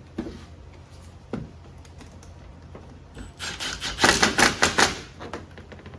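Ratchet wrench clicking: a few single clicks, then about halfway through a fast run of roughly ten clicks a second lasting nearly two seconds.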